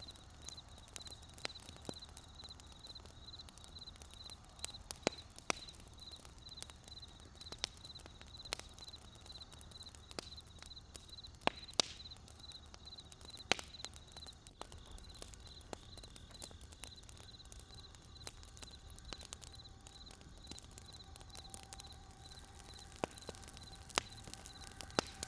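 Wood campfire crackling, with irregular sharp pops and snaps, several louder cracks scattered through. A steady high, rapidly pulsing chirp sounds behind it through the first half, and a faint hum of a few steady tones comes in about halfway.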